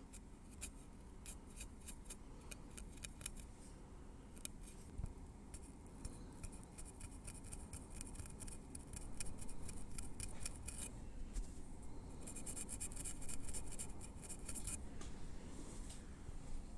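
Metal tweezers clicking and scraping through hair at the scalp: scattered soft ticks at first, then quick runs of dense, crisp clicking in the middle and again toward the end.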